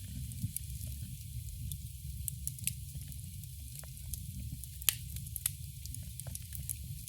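Campfire burning: a steady low rumble of the flames with frequent sharp crackles and pops from the burning wood, two louder pops about five seconds in.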